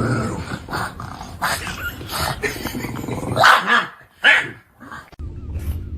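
A dog barking and growling in short bursts, objecting to something, with the loudest barks about three and a half and four and a quarter seconds in.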